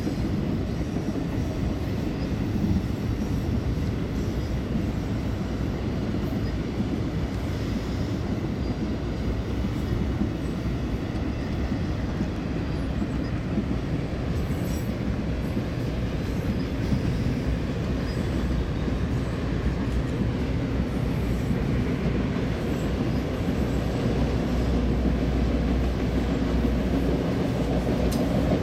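Freight train's enclosed autorack cars rolling past: a steady rumble of steel wheels on rail.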